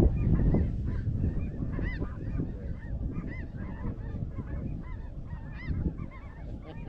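A chorus of snow goose calls: many short, overlapping honks at once. Under them is a steady low rumble that is loudest in the first second.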